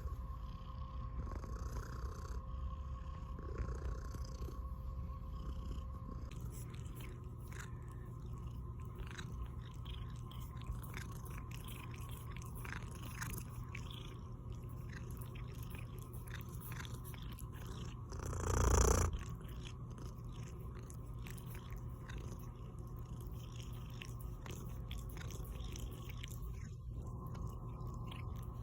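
Tortoiseshell cat purring steadily, with a brief louder noise about two-thirds of the way through.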